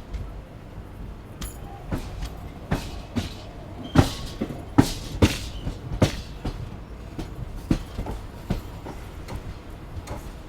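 Passenger train coach running on the track: a steady low rumble with irregular sharp clacks of wheels over rail joints, loudest and closest together about four to six seconds in.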